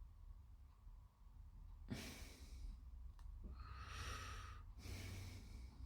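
A person breathing out near the microphone, two soft breaths, the first about two seconds in and the second, longer one about three and a half seconds in, over a faint steady hum.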